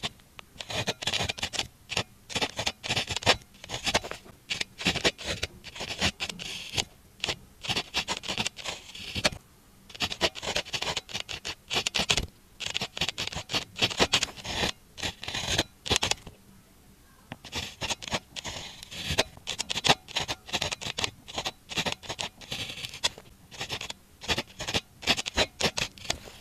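Pen writing on paper notes, close up: quick scratchy strokes in bursts, with short pauses between runs of writing.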